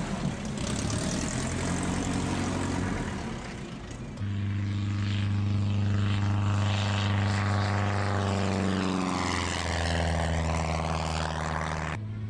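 A light single-engine propeller airplane, a homebuilt Glasair kit plane, running steadily at power. About four seconds in, a strong, steady engine-and-propeller drone sets in and holds.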